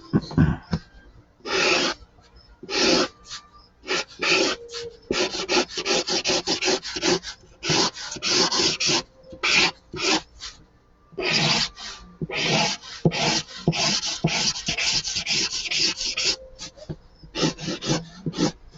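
Marker colouring in on paper: quick back-and-forth scratchy strokes in runs, with a couple of short pauses.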